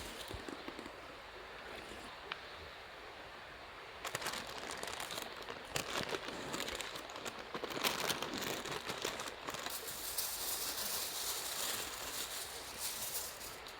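Aluminium foil crinkling and rustling as it is handled and folded, a dense run of crackly noise that starts about four seconds in and keeps going.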